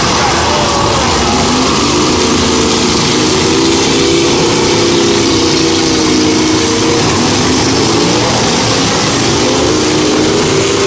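Engines of several 1980s demolition derby cars running and revving loudly, their pitch rising and falling as the cars drive and ram each other.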